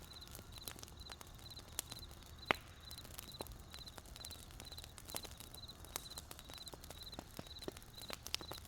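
Wood fire crackling with irregular sharp pops, one louder pop about two and a half seconds in, under a cricket chirping steadily in short high trills about three times a second.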